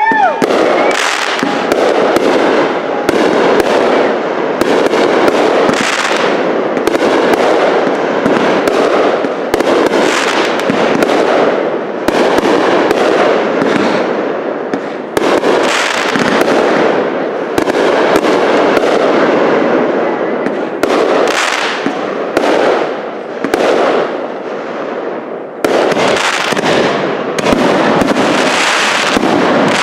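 Fireworks display: aerial shells bursting in a rapid, near-continuous barrage of loud bangs with barely a pause.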